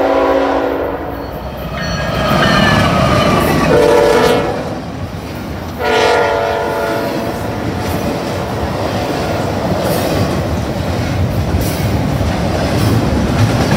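Freight train horn sounding in repeated long blasts over the first seven seconds or so, some of its tones sliding down in pitch, as a double-stack container train passes close by. After the horn, the steady rumble and rattle of the well cars' wheels rolling over the rails.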